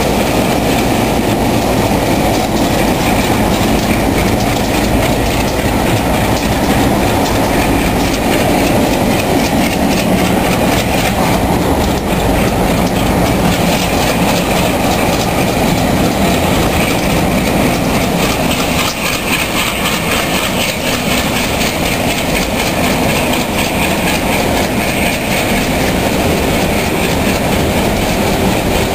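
Diesel freight train passing close by: locomotives working with exhaust showing, then hopper cars rolling past on the rails, making a loud, steady rumble and clatter.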